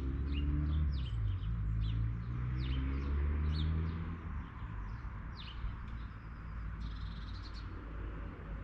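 Small songbirds chirping, many short quick downward notes several times a second. A low hum underneath is loudest for the first four seconds, then fades.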